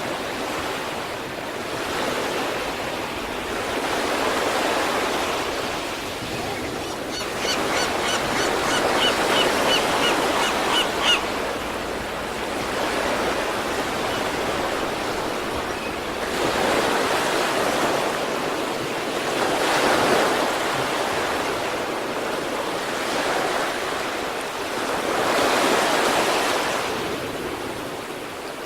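Sea waves breaking and washing ashore, swelling and easing every few seconds, with stronger surges about 9, 17, 20 and 26 seconds in. A quick run of short, high-pitched ticks sounds between about 7 and 11 seconds in.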